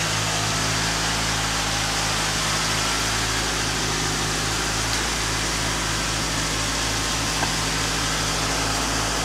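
Chrysler 2.2-litre four-cylinder engine of a 1985 Dodge 600 idling steadily, a low even hum with a slight regular throb.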